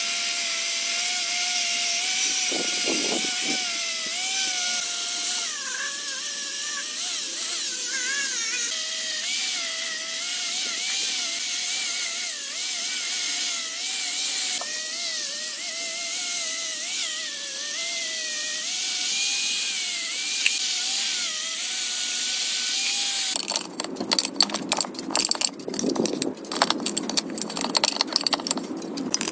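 A handheld power tool running with a whining motor whose pitch wavers up and down as the load changes, over a steady hiss. About 23 seconds in, it gives way abruptly to a rapid rattle of clicks and knocks.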